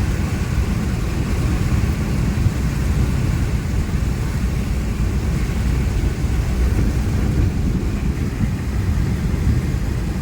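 A vehicle travelling along a road: a steady low rumble with no change in pace.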